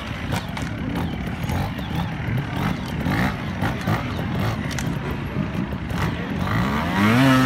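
Trials motorcycle engine revving in short blips as the rider picks a way over rocks, with a sharp, louder rev near the end.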